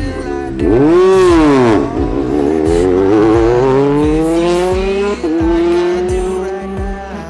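Rally car engine at full throttle: the revs jump and drop about a second in, then climb steadily as the car accelerates away, with a quick gear change about five seconds in before the pitch rises again.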